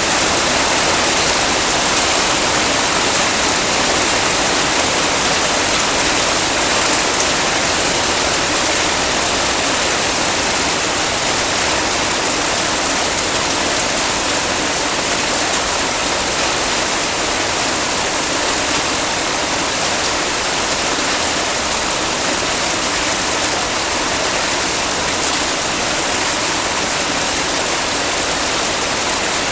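Heavy rain falling steadily, a dense, even hiss with no single drops standing out.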